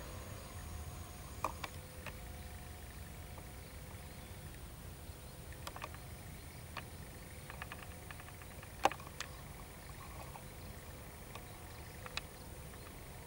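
Faint, steady low rumble of a distant diesel locomotive hauling a passenger train toward the listener. A few sharp clicks and ticks sound over it, the loudest about nine seconds in, with a short run of quick ticks shortly before.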